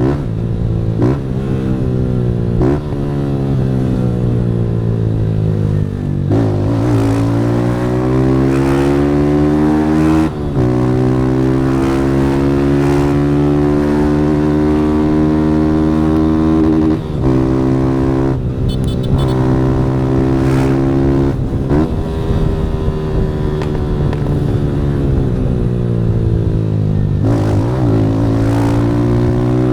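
Motorcycle engine through a Fortuna Trioval aftermarket exhaust, ridden hard: the pitch climbs and drops sharply at each gear change several times, then holds steady at high revs for long stretches.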